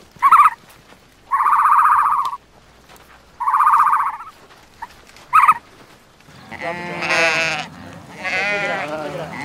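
Sheep bleating a few times in the second half, with a wavering, quavering pitch. Before that come two short sharp calls and two buzzing calls about a second long each.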